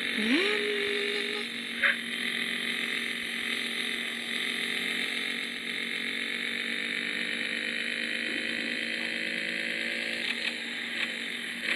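Yamaha XJ6 inline-four motorcycle engine running under way, heard as a steady buzz. Its pitch climbs slowly, then drops about ten seconds in.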